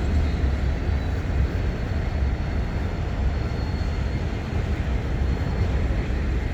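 Norfolk Southern freight train of empty autoracks rolling past with a steady, heavy low rumble.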